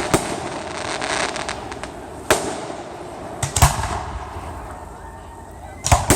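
Aerial fireworks bursting: several loud booms a second or two apart, including a quick double near the middle, with crackling after the first.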